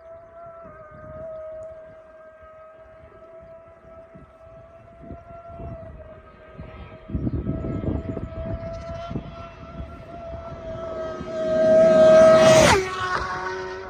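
A racing superbike approaching at full throttle, its engine note held high and steady and growing louder. It passes close about twelve and a half seconds in, with a sudden drop in pitch.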